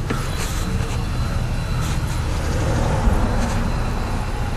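A car engine idling with a steady low rumble, with a few light knocks along with it.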